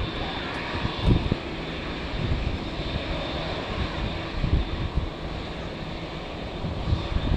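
Airliner jet engines with a steady rushing whine, with wind buffeting the microphone in irregular low thumps.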